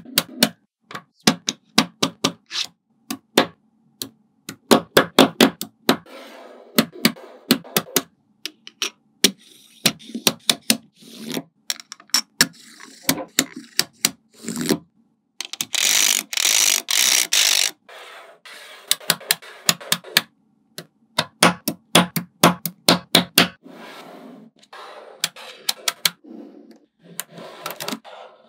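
Small magnetic balls clicking as they snap together one by one, in irregular runs of sharp clicks. Just past halfway, a dense clatter of many balls lasts about two seconds.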